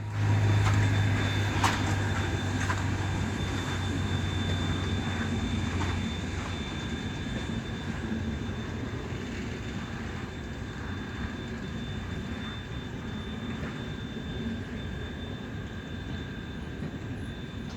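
Steady running rumble of a large vehicle, with a low hum that fades out about six seconds in and the whole sound slowly dying away.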